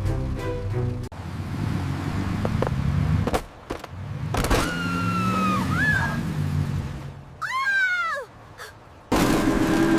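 A cat meowing twice, one drawn-out meow and then a shorter falling one, over a low rumble like a vehicle running. Background music plays briefly at the start and comes back near the end.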